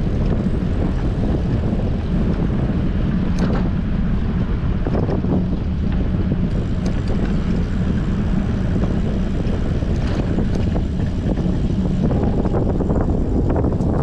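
Strong wind buffeting a GoPro's microphone while cycling, a steady low rumble with a few faint ticks scattered through it.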